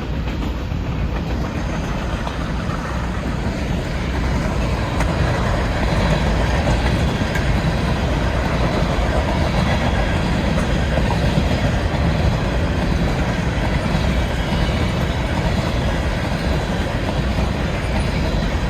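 BNSF grain train's cars rolling past, a steady noise of steel wheels on the rails that grows louder about four seconds in and then holds.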